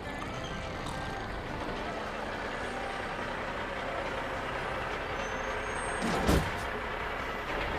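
Semi truck engine running as the truck slows to a stop, with a sharp air brake hiss about six seconds in.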